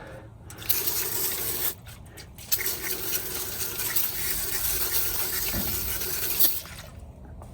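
Aerosol brake parts cleaner spraying in two bursts, a short one of about a second and then a longer one of about four seconds, as the parts are cleaned before installation.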